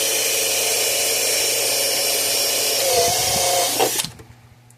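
Power drill with a step bit running steadily as it bores out a hole for a fuse holder. Its tone shifts about three seconds in, and the drill stops about four seconds in.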